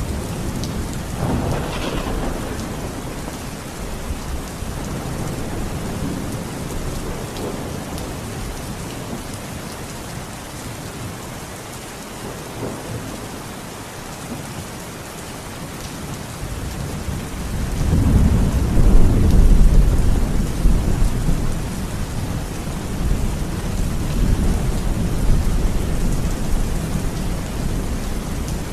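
Steady rain falling, with thunder rolling in: a low rumble builds from about seventeen seconds in to its loudest around nineteen seconds, then tails off into the rain. A smaller rumble swells briefly about two seconds in.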